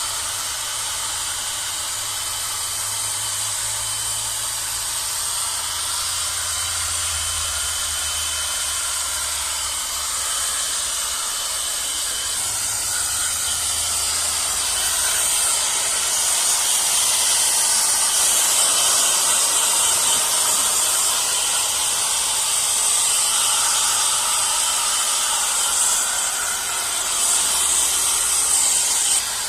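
Steady hiss like rushing air, with a faint high whine through the first half; it grows slightly louder about halfway through.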